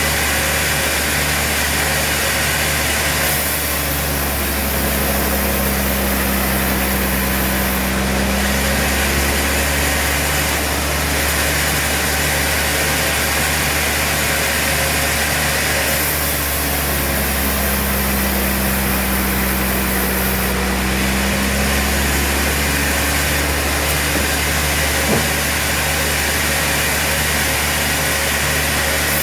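Sawmill machinery running steadily with a constant low hum. The sound shifts in a repeating cycle about every 13 seconds.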